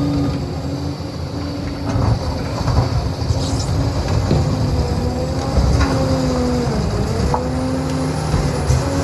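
Liebherr 746 crawler dozer working, its engine and drive giving a steady whine that sags in pitch and recovers about seven seconds in, as under a load. Occasional metal clanks sound over the running machine.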